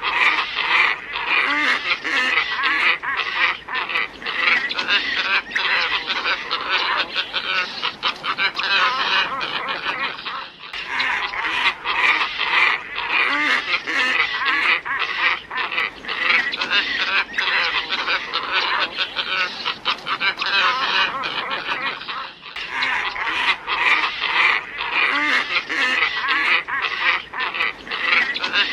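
A flock of glossy ibis calling, many birds at once in a dense, continuous chorus. It breaks off briefly about every twelve seconds and starts again, as a looped lure recording does.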